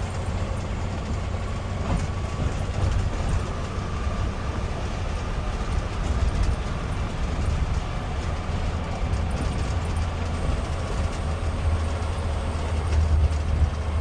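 Garbage truck's engine running steadily as the truck drives, heard from inside the cab, a steady low rumble with road noise.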